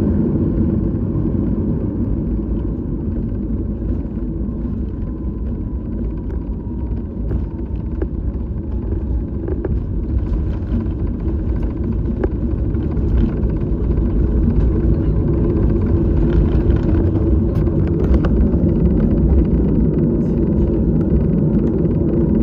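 Airliner cabin noise: the steady low rumble of the engines and airflow heard from inside the passenger cabin, with a faint high tone that slowly drops in pitch over the first several seconds and a few light ticks.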